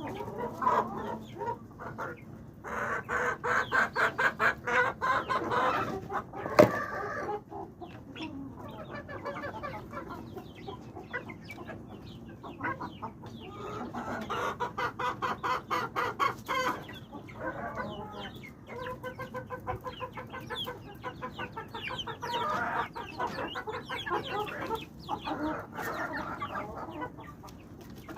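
Chickens clucking in long runs of rapid, evenly repeated notes, with one sharp knock about a quarter of the way in.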